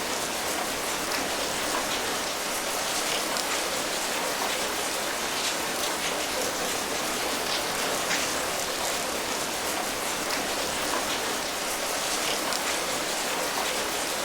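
Steady rain falling, an even hiss with many small drop patters on a surface.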